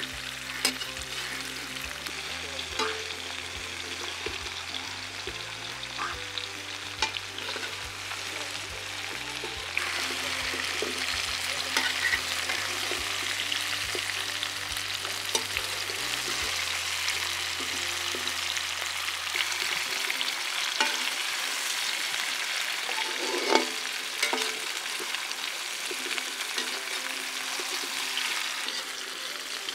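Whole spiny gourds and chopped onions sizzling steadily as they fry in a large metal wok. A metal spatula stirs them, with occasional sharp clicks and scrapes against the pan.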